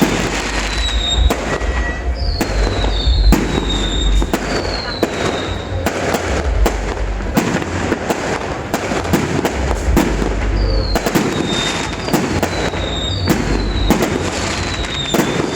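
New Year's fireworks display: a continuous barrage of bangs and crackling with deep booms underneath. Short falling whistles come in clusters a few seconds in and again near the end.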